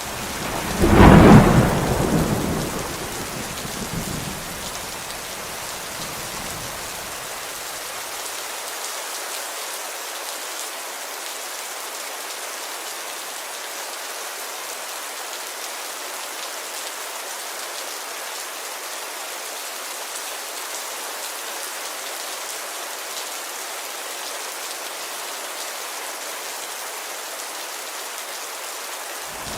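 Steady rain hissing against a window, with a loud clap of thunder about a second in that rumbles away over the next few seconds.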